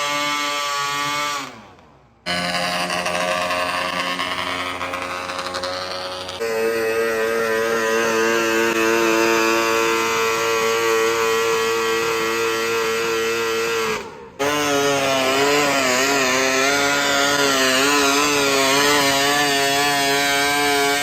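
High-revving engines of pulling tractors running hard. About two seconds in, the revs drop and the sound cuts off. It then runs steadily at high revs, cuts out once more, and comes back with the revs wavering up and down under load.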